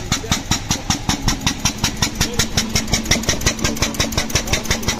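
Single-cylinder engine of a Benz Patent-Motorwagen replica idling, with an even chug of about four to five beats a second.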